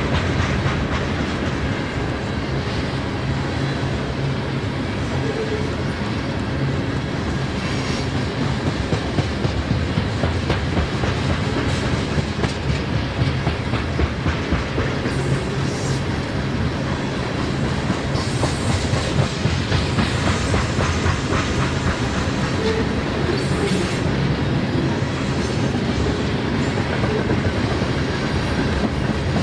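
Freight train cars rolling past at speed, the wheels clicking steadily over the rail joints, with a faint brief wheel squeal now and then.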